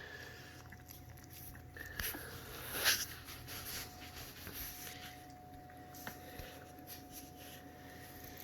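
Coton de Tulear puppies licking and lapping at a soft food mash, with faint wet clicks and one louder rustle about three seconds in.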